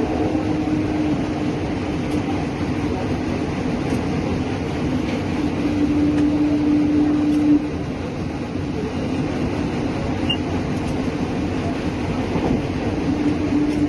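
Kolkata East-West Metro train running through its underground tunnel, heard from on board: a steady rail rumble with a low hum that fades in and out. The rumble drops a little about halfway through.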